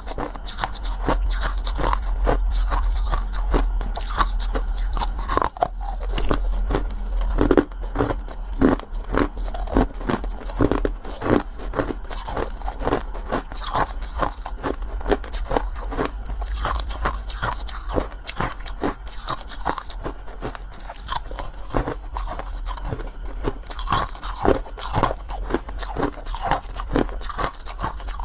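Close-miked eating: many crisp, crunching bites and chewing sounds in an irregular stream.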